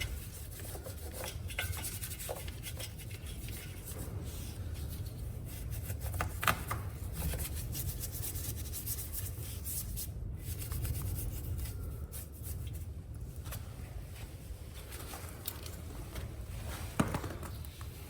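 Hand scrubbing and rubbing as caked dirt is cleaned off a motorcycle's chain guide, over a low steady rumble, with a sharp knock about six seconds in and another near the end.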